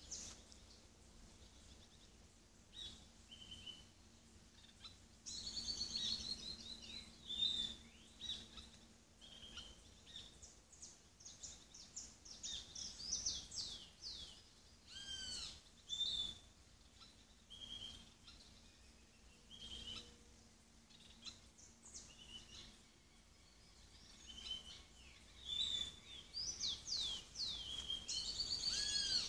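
Several wild birds singing and calling together: short whistled notes repeated at a steady pitch mixed with quick chirps that sweep downward, busiest early on and again near the end.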